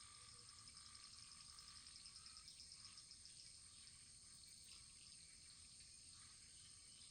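Faint wood fire burning in a fireplace: a steady high hiss with small, irregular crackles.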